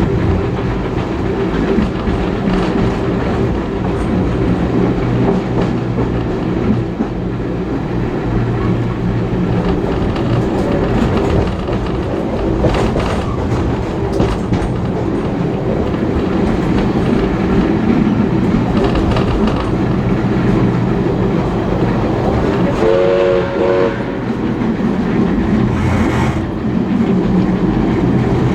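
A heritage passenger train running along the track, heard from on board: a steady rumble, with the wheels clicking over rail joints. About 23 seconds in there is a brief pitched sound of several tones.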